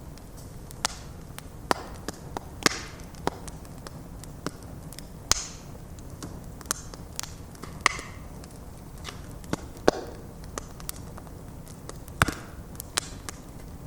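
Bonfire of stacked logs burning: a steady low rumble of flames under irregular sharp crackles and pops from the burning wood, a few of them loud snaps.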